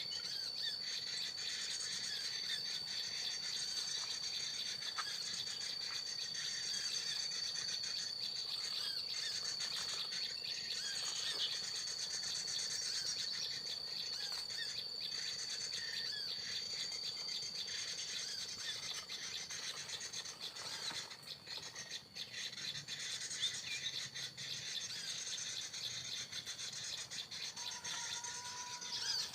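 Small birds chirping and twittering over a steady high-pitched insect drone, which stops a little past the middle.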